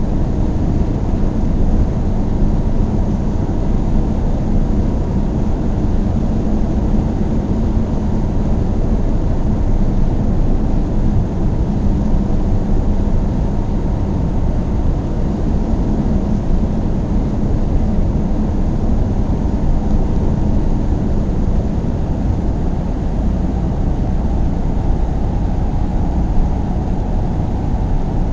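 A car being driven steadily on the road, heard from inside: an even, low rumble of tyres on the road and engine hum that holds at one level throughout.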